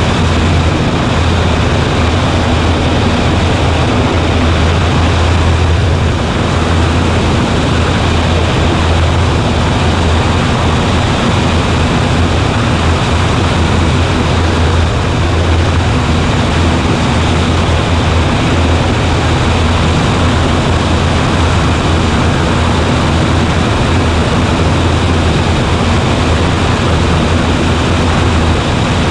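Cessna 140A's engine and propeller running steadily in flight, a loud, even drone with no change in pitch.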